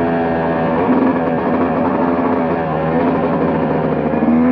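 KTM motocross bike's single-cylinder engine running under load on the track, its pitch rising and falling every second or two as the rider works the throttle and gears.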